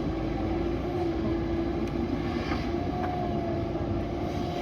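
JCB backhoe loader's diesel engine running steadily under work, with a held whine, and a second, higher whine joining about three seconds in.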